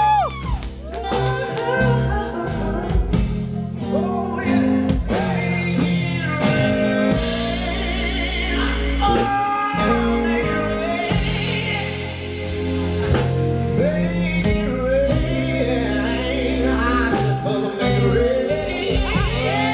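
Live band playing a slow, bluesy song, steady chords underneath and a lead melody line on top that bends up and down in pitch.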